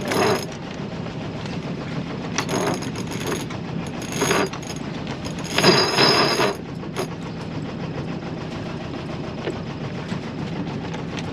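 Sailboat's engine running steadily as the boat motors away from the dock. Several short rushing noises are heard over it, the longest about a second long, around the middle.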